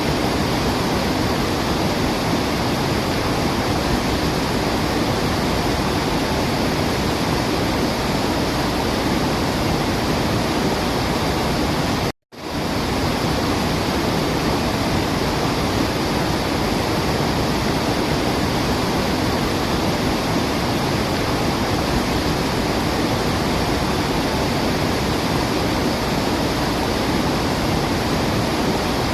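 Waterfall rushing in a steady, even roar of falling water. Around twelve seconds in it cuts out abruptly for a split second, then fades back in, a loop seam in the recording.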